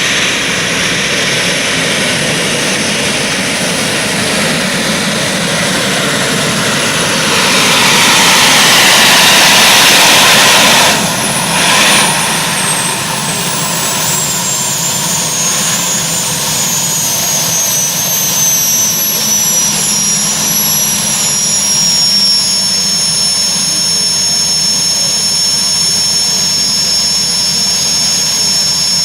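Modified pulling tractor's engine running hard, swelling to a loud peak and then cut back sharply about eleven seconds in. A high whine then falls in pitch over the next ten seconds as it spools down, while engine noise carries on.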